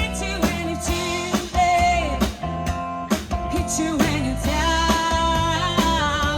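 Small band playing a pop-rock cover song: a singing voice over guitar and a drum kit keeping a steady beat.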